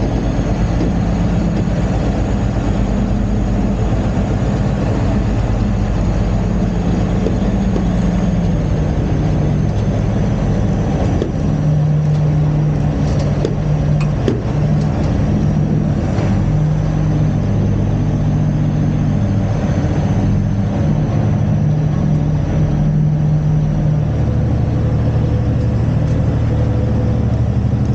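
Heavy diesel engine running at a steady low speed, its pitch shifting a few times as the load on it changes, about a third of the way in and again near the end.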